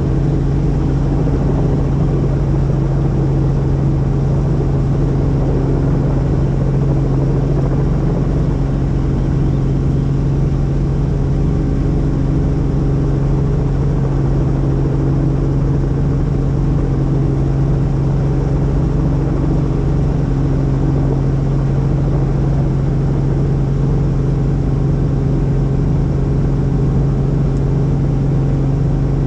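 Helicopter in flight: a steady, loud drone with a strong low hum and layered steady tones above it.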